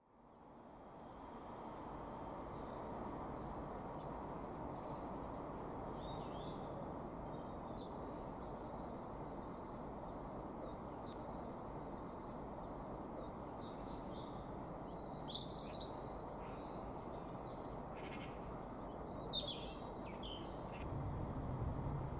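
Outdoor ambience: a steady low background noise that fades in over the first two seconds, with scattered short bird chirps over it, two sharp single ones and a few small clusters later on.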